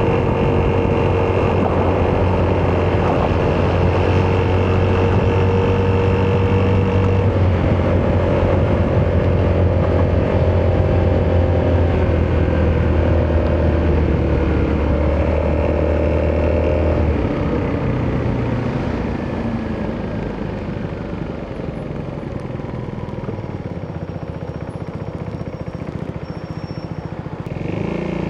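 Italjet Dragster 200 scooter's single-cylinder four-stroke engine through an Akrapovic exhaust, running steadily under way. About two-thirds of the way through it eases off, falling in pitch and getting quieter, and picks up again near the end.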